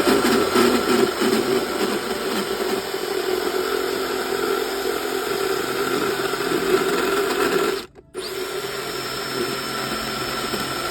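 A small electric motor running steadily, as in a power tool or a fan unit, with a brief drop to silence about eight seconds in.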